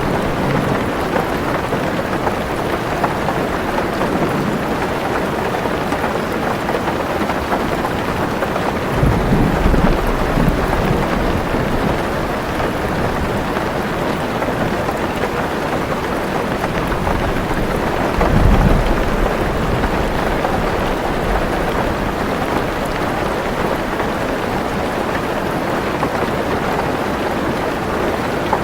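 Heavy rain falling steadily on a car roof, heard from inside the car, with two low rumbles of thunder, about nine seconds in and again about eighteen seconds in.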